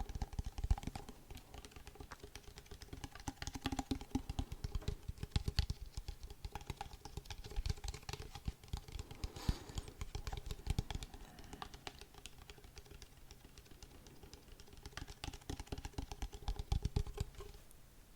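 Rapid tapping close to the microphone: dense runs of light taps, each with a soft low thud, easing off for a couple of seconds past the middle before picking up again.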